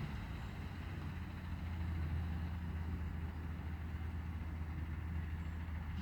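Engine idling steadily, a low, even hum with no changes.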